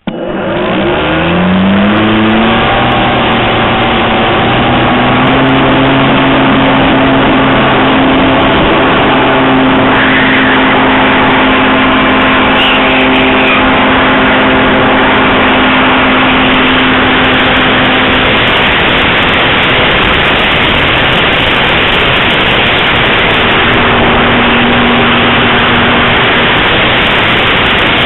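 Astroflight 625G cobalt geared electric motor and propeller of an RC plane, heard from a camera mounted on the aircraft. The motor spools up with a rising whine over the first two seconds or so, then runs steadily at high power amid a loud rush of propeller wash and air.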